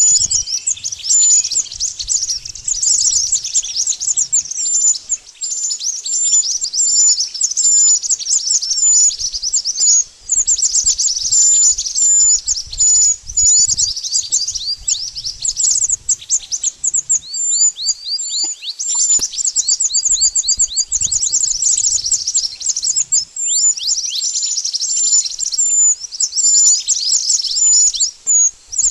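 Mantenan birds chirping without pause: rapid, high-pitched twittering, strings of quick chirps and short downward-sweeping notes packed tightly together.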